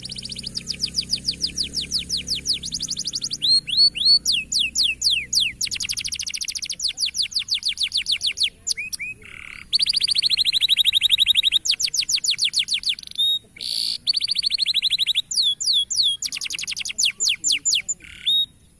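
Canary singing a long, high-pitched song of fast trills and rolls of rapidly repeated notes, switching to a new phrase every second or two.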